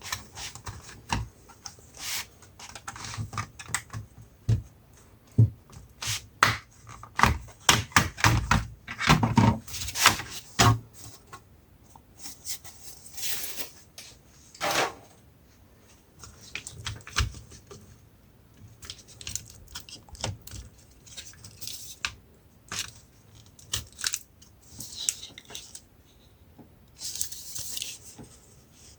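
Sharp plastic clicks, taps and scrapes of a laptop's case and parts being handled and pried apart by hand, densest in the first third, with a few longer scraping sounds later.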